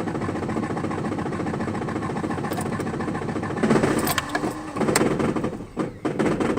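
Toyota 22R-TEC turbocharged four-cylinder running as the gas pedal is pressed: it swells louder about four seconds in, then runs unevenly with dips, a rough response to throttle that the owner thinks may come from a bumped throttle position sensor.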